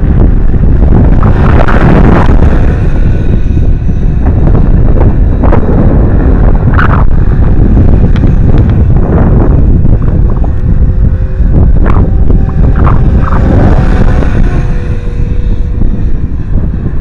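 Heavy wind buffeting the microphone in gusts, with the faint steady whine of an electric 500-size RC helicopter in flight coming through, mostly in the second half.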